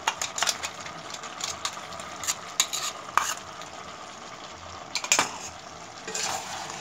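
Chicken, tomatoes and masala sizzling as they fry in an aluminium kadhai, with a metal spatula scraping and clicking against the pan several times. The masala is being fried (bhuna) together with the chicken.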